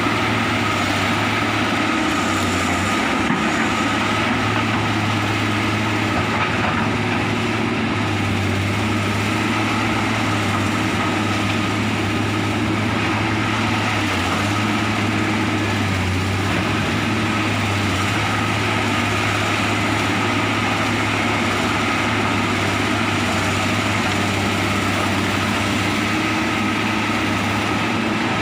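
Komatsu excavator's diesel engine running steadily, with a constant high whine over a deep hum.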